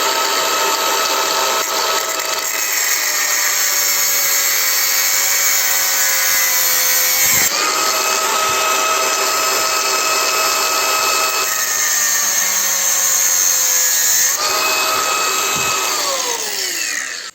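Electric power tool with a cutting disc whining as it slices into a brass gas-cooktop adjustment valve. Its pitch sags twice as the disc bites and picks up again in between, then falls as the motor spins down to a stop near the end.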